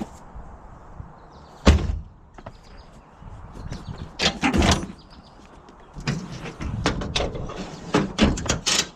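Equipment being handled and packed away: a loud thump about two seconds in, then bursts of knocking and clattering, with many short knocks in the last three seconds.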